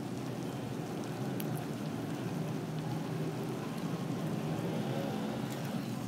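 Stir-fry sizzling steadily in a hot wok: boiled wontons, bean sprouts and greens frying with sweet soy sauce and oyster sauce just poured in. A few faint clicks.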